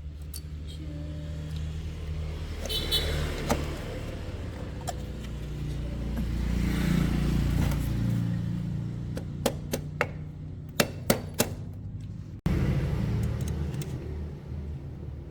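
A motor vehicle engine running, a steady low hum that grows louder around the middle and then eases off, with several sharp clicks in the second half. The sound breaks off abruptly for an instant a little past twelve seconds, then the engine sound carries on.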